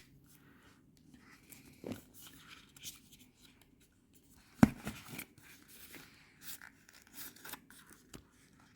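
Faint rustling and crackling of a small paper packet being handled and worked open, with one sharp click about halfway through.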